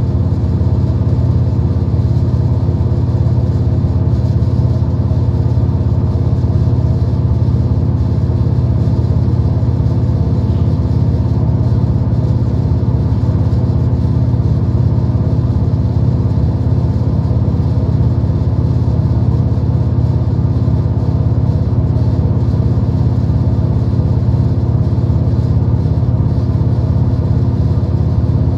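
V/Line diesel train running, heard from inside the carriage: a loud, steady low drone with a constant-pitch hum over a rumble.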